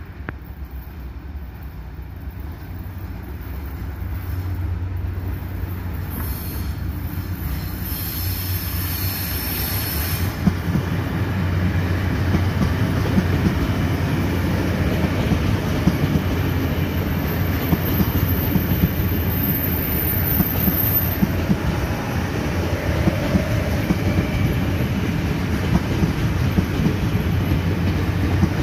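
Passenger train on the Taiwan Railway approaching and passing close by: a low rumble that grows louder over the first dozen seconds and then holds steady. High wheel squeal from the curved track rises over it twice, briefly near ten seconds and for several seconds later on.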